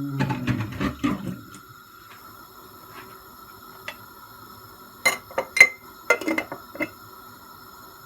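Dishes, glassware and cutlery clinking and clattering while a kitchen is tidied: a burst of clatter at the start, then a run of sharp clinks and knocks about five to seven seconds in.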